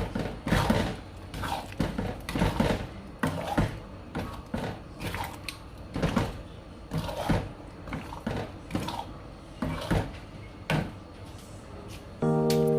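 Spatula scraping and knocking against a pan in irregular strokes as thick chili paste is stirred. Background music with held notes starts near the end.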